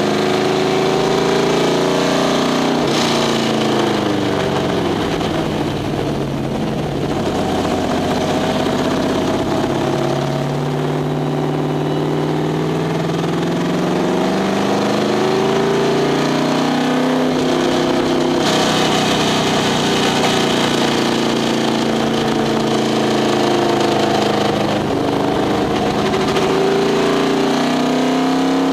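1969 Corvette race car's V8 engine at racing speed, heard from inside the cockpit, its revs climbing and dropping again and again through the lap.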